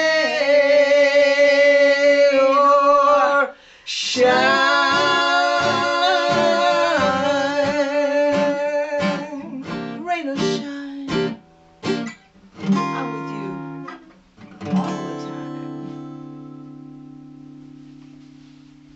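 A singer holds long sustained notes over acoustic guitar. The guitar then plays a run of picked and strummed notes and ends on a final chord that rings out and slowly fades.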